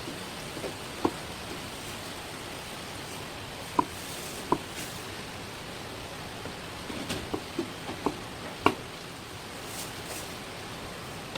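Light clicks and knocks of kitchen utensils, about eight of them scattered irregularly and bunched together past the middle, over a steady hiss.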